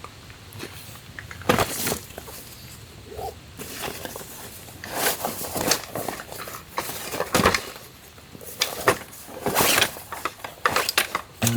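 Camping gear being handled and set down: irregular knocks, clatters and rustling.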